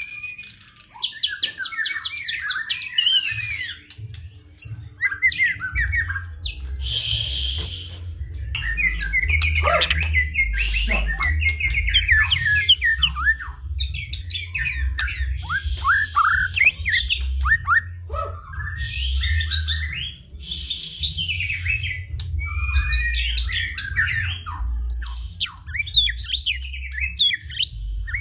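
White-rumped shama singing a long, varied song of rising and falling whistles, trills and harsher chattering notes, with a low rumble underneath.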